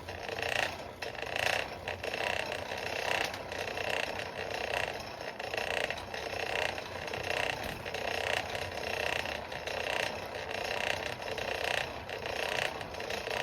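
Solid-fuel forge with its blower pushing air through the fire pot: a steady rushing that swells and eases about once a second.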